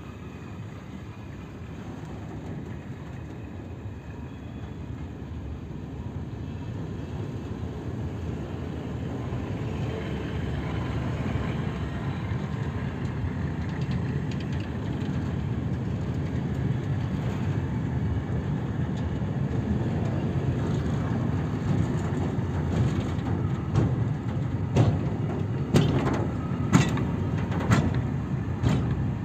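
Freight train of open coal wagons rolling along the station track, a low rumble growing steadily louder, with a series of sharp wheel clacks over rail joints in the last few seconds.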